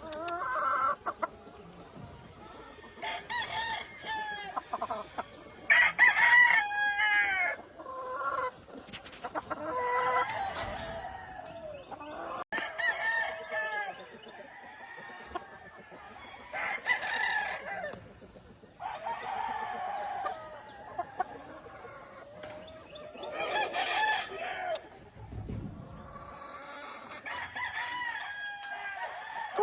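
Roosters crowing, one after another, several overlapping crows every few seconds, with hens clucking between them.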